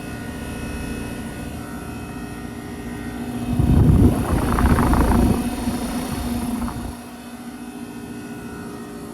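2012 Trane XR13 heat pump outdoor unit running in cooling, with a steady compressor hum and fan noise. A loud rushing swell rises about three and a half seconds in and dies back by about five and a half seconds.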